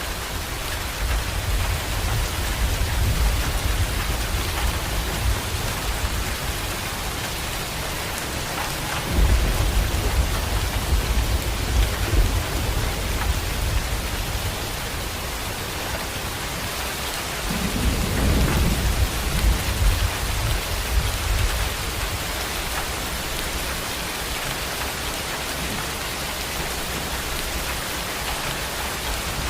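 Heavy rain falling steadily, with low rolls of thunder rumbling through it, the strongest swelling up about nine seconds in and again around eighteen seconds.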